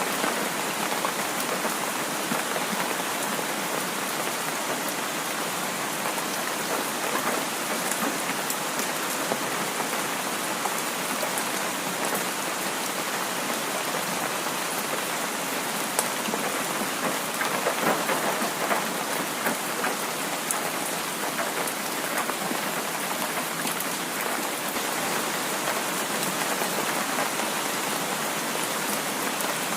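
Heavy rain falling steadily, a dense even patter that swells briefly a little past halfway.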